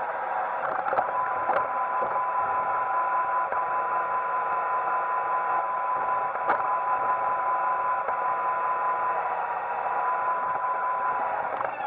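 iRobot Roomba 880 robot vacuum running, a steady whine of its vacuum and brush motors. A few sharp knocks cut through it: about a second in, again half a second later, and once midway.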